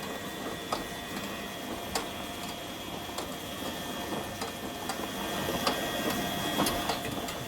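Front-loading automatic washing machine running early in its wash cycle as it fills: a steady mechanical whirring with a thin, constant whine and a few light clicks.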